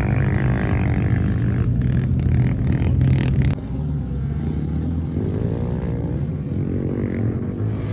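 Vehicle engines running with a steady low drone; the sound drops and changes suddenly about three and a half seconds in.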